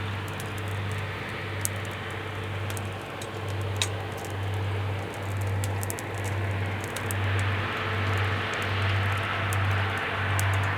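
Wood campfire crackling with scattered sharp pops, over a loud low hum that pulses about one and a half times a second.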